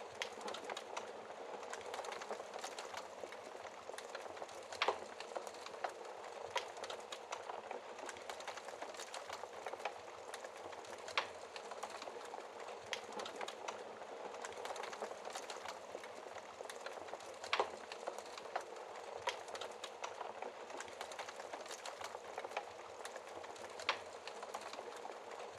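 Wood fire burning in a fireplace: a steady soft hiss of flames with many small crackles, and a louder sharp pop of burning wood every few seconds.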